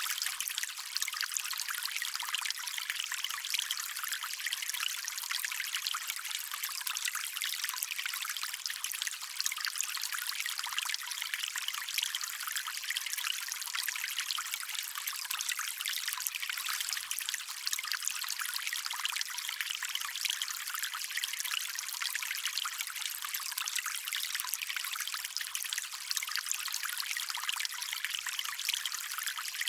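Small stream of water trickling steadily, a bright, fine splashing with little low rumble.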